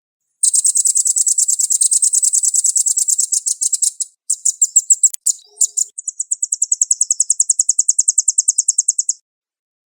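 Velvet-fronted nuthatch singing fast, tight, high-pitched trills. A long rapid trill runs for about three and a half seconds, then come a few short broken bursts, then a second long trill.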